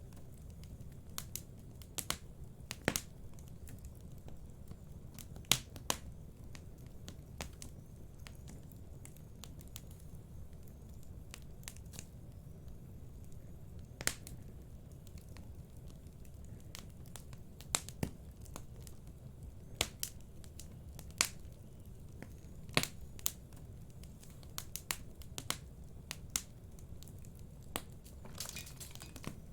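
Wood fire burning in a fireplace: a steady low rumble of flames with irregular sharp crackles and pops, about one every second or two.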